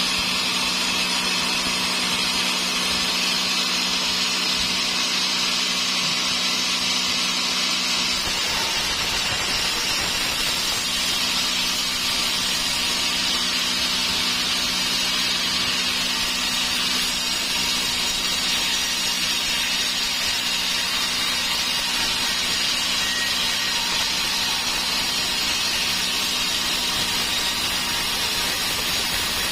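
Sawmill saw running steadily while sawing dry teak, a constant machine hum with a rushing cutting noise that thickens about eight seconds in.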